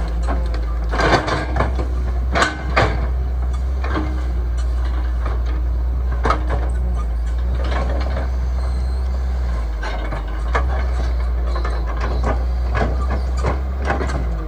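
Heavy earthmoving machine's engine running steadily, with irregular sharp metallic clanks and knocks over it, loudest about one to three seconds in.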